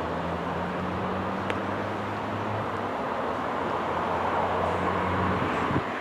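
Diesel train engine running steadily with a low hum over general rumble; the hum cuts off abruptly with a click near the end.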